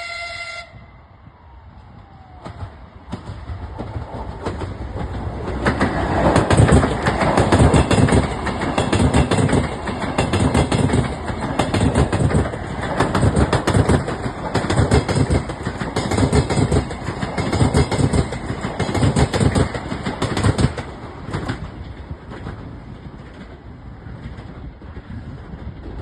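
A train passing close by, its wheels clattering rhythmically over the rail joints. The clatter grows louder over the first few seconds, is loudest through the middle and fades near the end. A horn blast cuts off just at the start.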